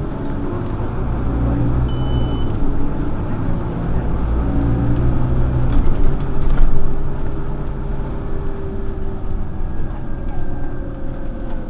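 Scania OmniCity single-deck bus heard on board, its diesel engine accelerating, the engine note rising and falling and loudest about halfway through. A short high beep sounds about two seconds in.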